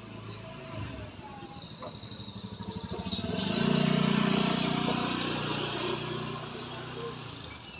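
A motor vehicle passing on the road, its engine and tyre noise building, peaking about four seconds in, then fading away.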